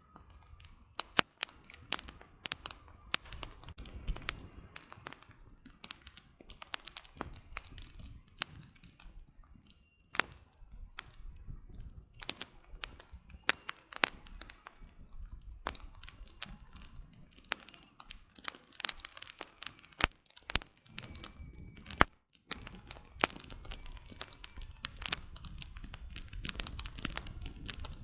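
Wood fire burning: irregular crackling and sharp pops of burning logs over a low hiss of flame.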